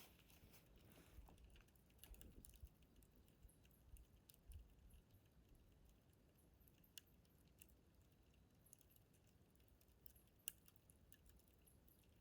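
Campfire crackling faintly, with scattered small pops and ticks and one sharper pop about ten and a half seconds in.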